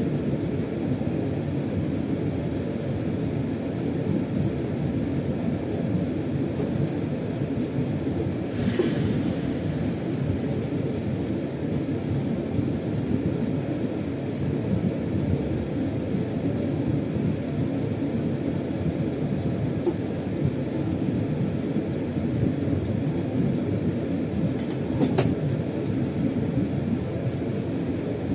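Freight train running steadily, heard from inside the locomotive's cab: a constant low rumble with a few short, sharp clicks, two of them close together near the end.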